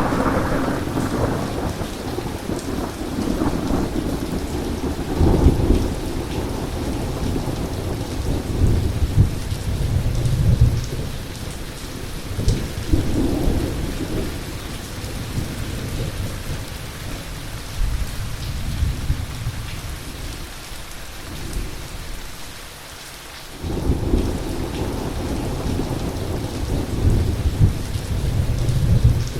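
Heavy rain falling steadily with rolling thunder rumbling in repeated swells. The rumble drops away briefly around three-quarters through, then comes back suddenly and loud.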